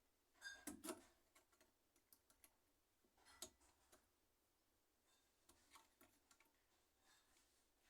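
Near silence with a few faint, short clicks and taps, the clearest about a second in and again near three and a half seconds in.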